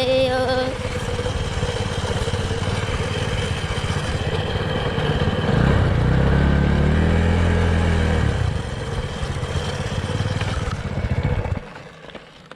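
Dirt bike engine running, revving up about halfway through and then easing back, and cutting out shortly before the end: the bike stalls.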